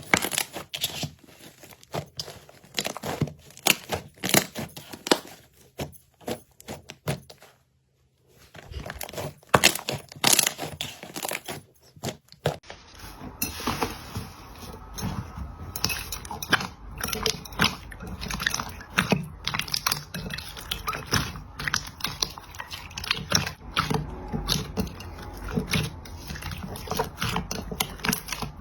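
Slime being pressed and squeezed, making a run of sharp crackling, popping clicks. After a brief near-silent gap the crackling resumes, and a little before halfway it changes to a denser, deeper crackle.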